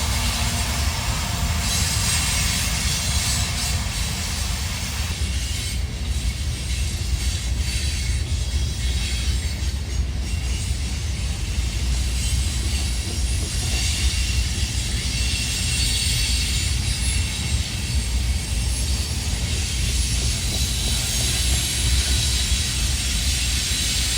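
Freight train cars rolling past on the rails, a steady rumble of wheels on track.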